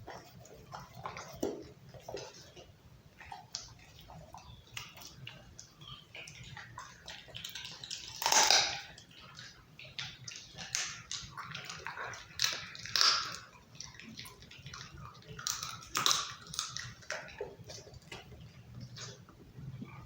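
Pit bull chewing raw chicken with wet smacking and irregular crunches, the loudest bites about 8, 13 and 16 seconds in.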